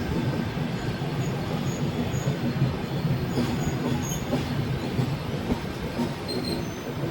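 The 22731 Hyderabad–Mumbai Express passenger train running on the rails: a steady rumble of wheels on track, with several short high-pitched wheel squeals.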